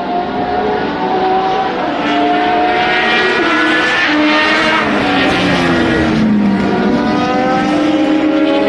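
Several racing cars' engines passing at speed, overlapping. Their pitch rises and falls as they go by and change gear.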